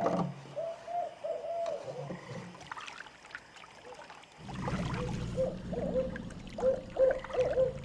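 Night swamp sounds: short repeated hooting or croaking animal calls, joined after about four and a half seconds by a steady low rumble under faster calls.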